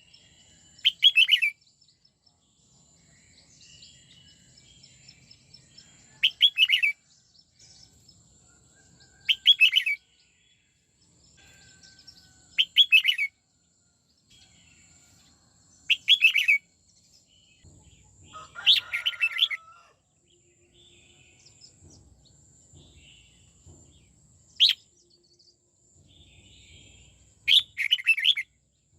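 Red-whiskered bulbul singing short, rapid, twisting phrases, each about half a second long, repeated every few seconds, about eight times.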